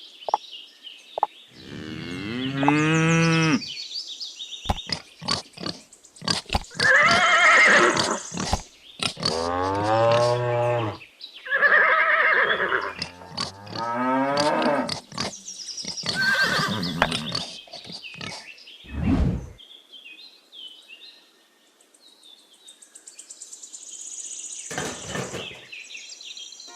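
A string of farm animal calls one after another, each lasting a second or two, with short gaps and clicks between them.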